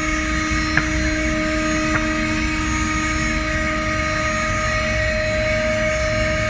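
Spindle of an ATC CNC router running steadily with a constant whine and machine noise, with two short clicks about a second and two seconds in.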